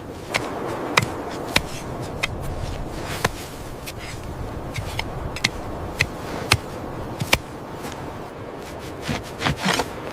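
Sharp, irregular cracks and pops, about one or two a second, over a steady low wind-like rumble, with a quick cluster of them near the end.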